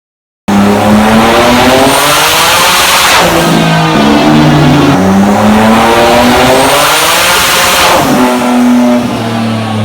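Twin-turbo EG33 flat-six engine of a Subaru Impreza revving hard under load on a dyno, in two rising pulls. Each pull ends in a sudden drop in revs with a short rush of noise.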